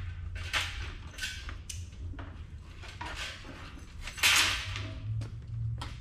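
Irregular scraping and handling noises with a few sharp clicks, the loudest scrape about four seconds in, over a steady low hum.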